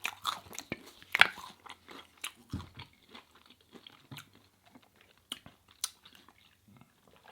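Close-miked eating sounds: chewing with irregular sharp crunches and mouth clicks, the loudest crunch about a second in.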